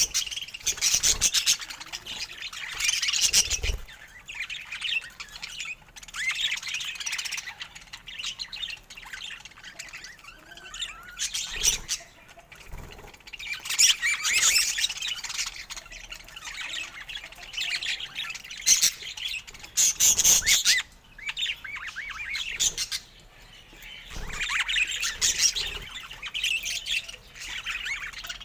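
Budgerigars chirping and chattering, a busy high warble that comes in bouts of a second or two with short gaps between.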